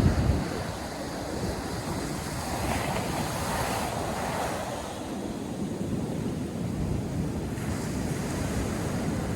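North Sea surf breaking and washing in, with a wave surging up loudest about three to four seconds in. Wind buffets the microphone briefly at the start.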